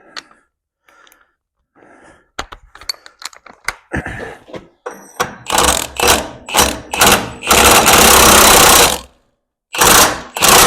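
Impact wrench with a large socket hammering on a bolt in several short trigger bursts, then a longer run of about a second and a half, and one more burst near the end. Light clinks of tools and sockets come before it.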